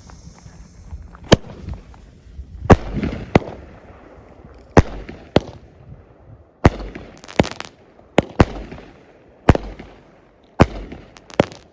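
A 16-shot consumer fireworks cake firing its shells one after another: about a dozen sharp pops at uneven intervals, roughly one a second.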